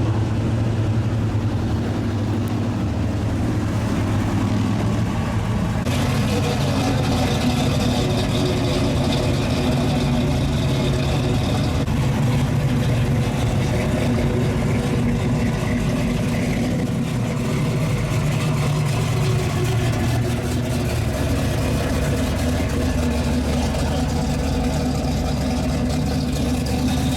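Car engines idling steadily with a deep, even rumble. About six seconds in, more higher-pitched noise joins over it.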